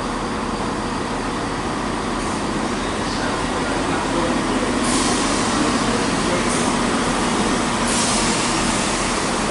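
Transport for Wales Class 769 multiple unit running alongside the platform, a steady rumble of engine and running gear that grows a little louder as the carriages draw level. Two short bursts of hiss come about halfway through and near the end.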